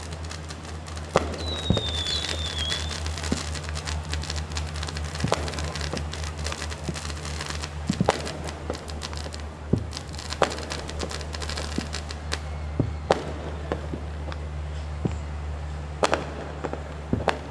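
Fireworks going off: irregular sharp bangs and pops, some louder than others, over a steady low rumble, with a brief high wavering whistle about a second or two in.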